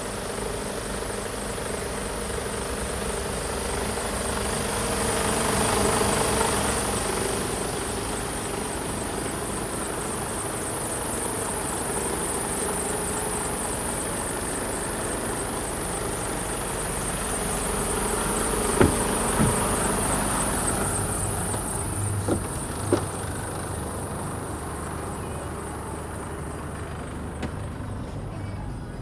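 Mercedes Actros 2545 truck's diesel engine idling steadily, with a high steady whine over it and a brief swell a few seconds in. A few sharp clicks or knocks come about two-thirds of the way through.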